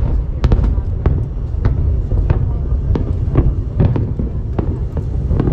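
Aerial fireworks going off in a display: many sharp bangs, two or three a second, over a continuous low rumble of booms.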